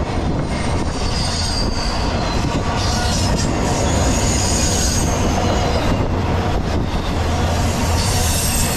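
Intermodal freight train's double-stack and trailer cars passing close by at speed: a steady rumble of steel wheels on the rails, with a thin high wheel squeal and some clickety-clack over the rail joints.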